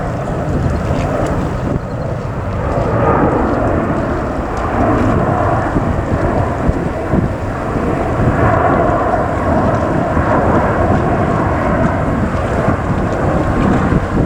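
Jet engine noise of a Boeing 777-200 airliner taking off: a loud, steady, deep rumble that swells and eases slightly as the aircraft passes.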